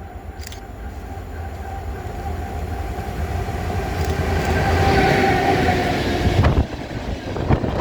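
A train approaching and passing close: a low rumble with a steady whine that grows louder to a peak about five seconds in, then sharp wheel clicks over the rail joints near the end.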